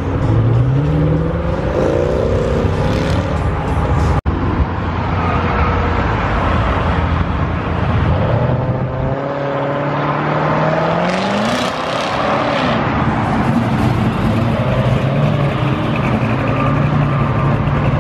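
Car engines revving and accelerating hard as cars pull away one after another. The engine note climbs in pitch several times, and there is a very brief dropout about four seconds in.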